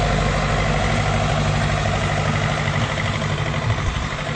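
Engine of a sugar cane loader, a tractor turned round with a grab claw on the back, running steadily and loudly.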